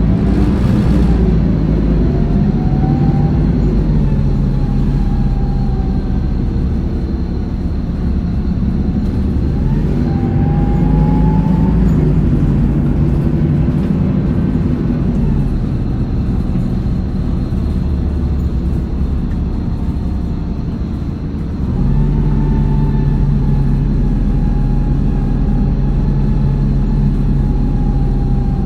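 Hino Blue Ribbon 2DG-KV290N2 city bus on the move, its diesel engine pulling away with the pitch rising and falling as it works through the gears, twice. It eases off through the middle, then comes back on load suddenly about three-quarters of the way through and runs steadily, with a faint constant high whine underneath.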